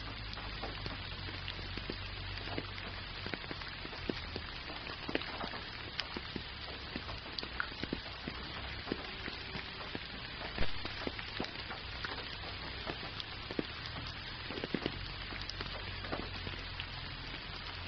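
Gentle rain falling steadily, with many separate drop hits ticking close by over an even hiss; one louder drop about ten seconds in.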